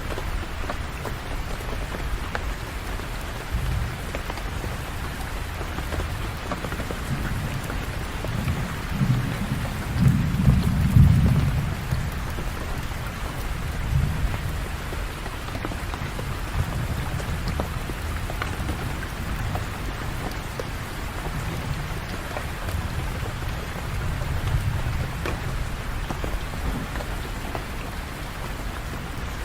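Steady rain falling, with rolls of thunder rumbling low beneath it; the loudest roll comes about ten seconds in, and softer ones follow a few seconds later and again near the end.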